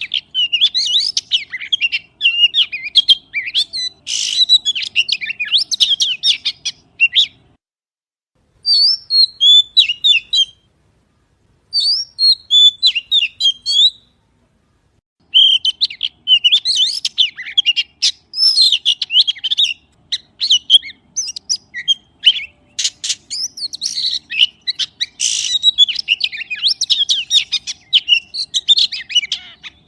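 Magpie singing: a fast, varied run of chirps and whistles, broken by three short silent gaps in the first half.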